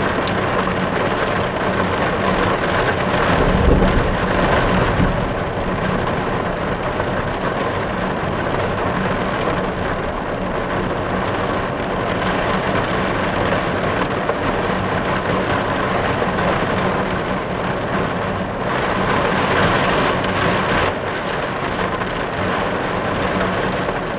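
Steady rain drumming on a car's roof and windows, heard from inside the car. A low rumble swells briefly about four seconds in.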